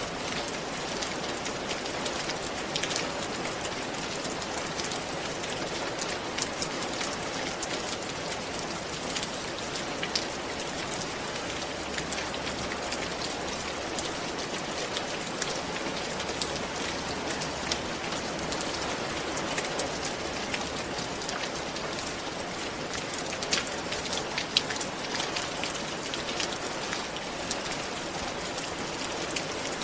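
Steady rain falling on a roof, a constant hiss with many sharp individual drop ticks throughout.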